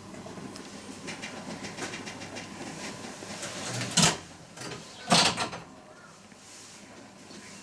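Local train running along the track, with a steady rumble and light clicking from the wheels. Two loud knocks about four and five seconds in, like wheels striking rail joints.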